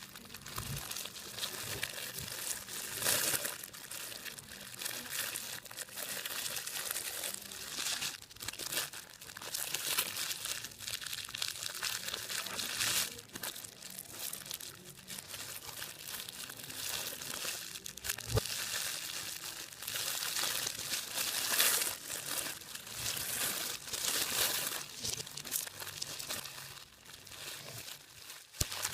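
Hands working a crinkly material, making continuous irregular crinkling and crunching.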